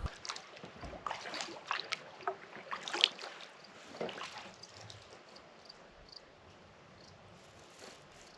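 Kayak paddle strokes: short splashes of water off the blade, loudest about three seconds in, thinning out to faint drips after about five seconds.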